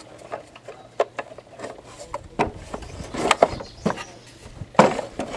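Irregular clanks, knocks and scrapes of hands working metal parts on a lawn mower while a replacement engine is fitted, with a louder cluster about two and a half seconds in and a sharp knock near the end.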